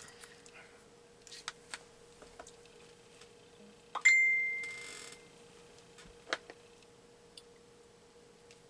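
A single metallic ding about four seconds in: a sharp strike followed by a clear ringing tone that fades away over about a second. Light clicks and knocks from handling things on a table come before and after it.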